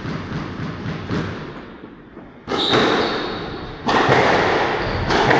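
Squash rally: the ball struck and thudding off the walls in quick succession with players' footfalls on the court. Then, about halfway through, three loud sudden surges of noise, each dying away, as the rally breaks off.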